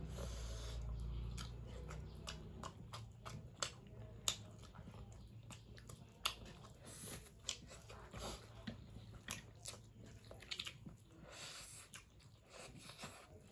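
Close-miked chewing and biting of food, with many irregular sharp mouth clicks. A low hum fades out over the first couple of seconds.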